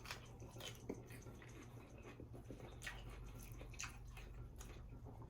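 Faint, wet chewing and mouth sounds of a person eating close to the microphone, with scattered soft clicks.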